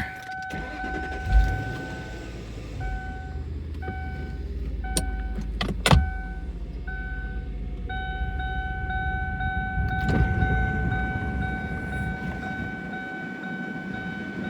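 2002 Ford Thunderbird Roadster's power soft top being lowered from inside the car: a low motor hum, a couple of thumps, and an electronic warning chime that beeps on and off and then holds a steady tone.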